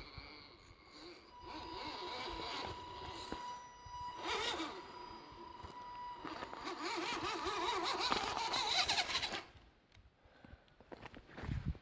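Farm truck crawling over rock: the engine works under load with a steady high whine over it, then grows louder and rougher for a few seconds before cutting off suddenly about two seconds before the end.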